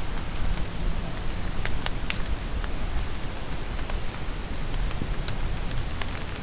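Steady rain, with scattered drops ticking close by. A small bird gives a few short, very high chirps about four to five seconds in.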